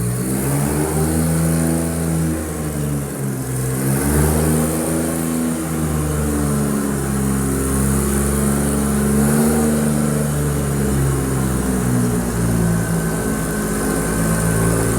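Two-stroke diesel truck engine running and being revved, its pitch rising and falling in slow swells several times.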